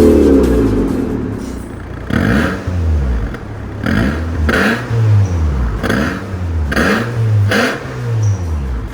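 Honda Civic 1.8's four-cylinder engine revved through an MS-R valved cat-back exhaust. A loud rev falls away over the first second, then a run of quick throttle blips follows, about two a second, each rising and dropping back.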